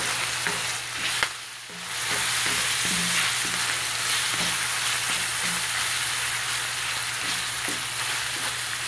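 Ground beef, onion and carrot sizzling in a hot cast-iron skillet while a wooden spatula stirs and scrapes through it, with repeated soft knocks of the spatula against the pan. The sizzle drops briefly about a second and a half in.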